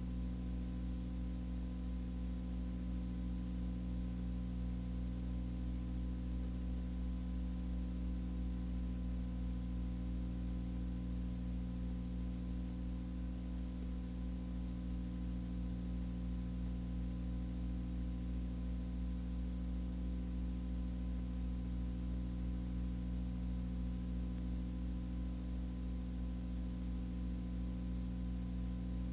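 Steady low drone made of several unchanging tones over a faint hiss, with no change in pitch or level.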